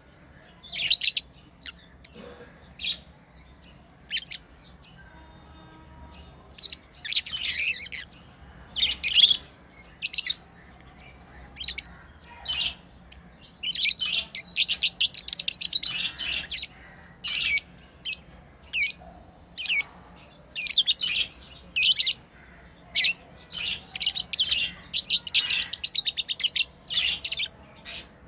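Pet lovebirds chirping: a string of short, high-pitched chirps and quick chattering runs, with a lull of a few seconds early on.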